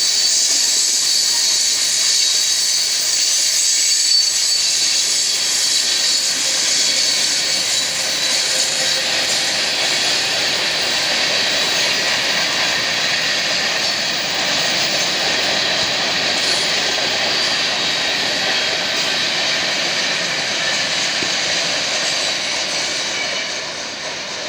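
BNSF freight train rolling past at speed: a loud, steady rush of wheel and rail noise with a faint high ringing. It drops off a little near the end as the train moves away.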